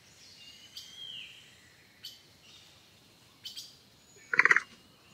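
Donkey starting to bray: after a quiet stretch with a faint chirp, short squeaky, rapidly pulsing calls begin about four seconds in.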